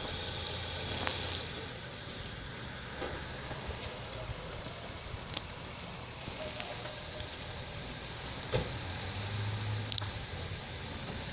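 Rain falling: a steady hiss with scattered sharp taps from drops.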